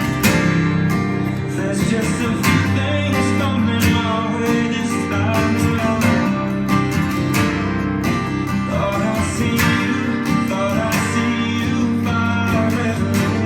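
Acoustic guitar strummed and picked in a steady rhythm, playing an instrumental passage of a song.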